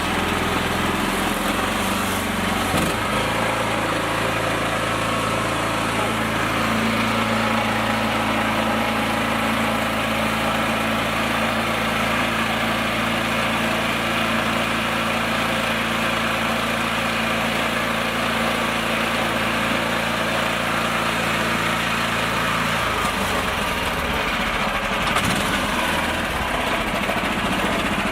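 A mini tractor's small engine running steadily. Its note shifts about three seconds in, then turns rough and uneven near the end.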